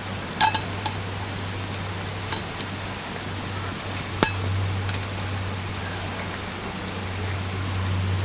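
A few sharp clinks and knocks, the first with a short ring, over a steady low hum and hiss.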